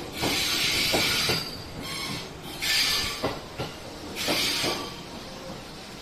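JR 211 series electric train cars rolling slowly past, wheels clicking over rail joints, several clicks in pairs, with three bursts of high hiss from the running gear.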